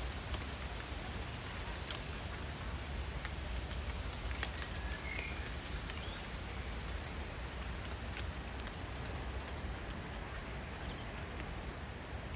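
Steady rain falling, an even hiss with scattered sharp drip ticks and a deep rumble underneath. A brief bird chirp about five seconds in.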